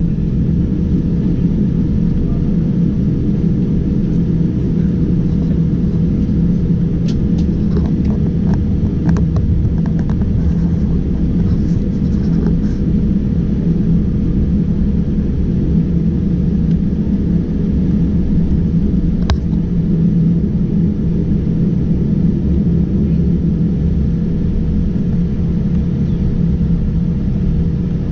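Boeing 787-9 cabin noise while taxiing: a steady low rumble of the GEnx engines at low thrust and the cabin air system, with a few faint clicks in the middle.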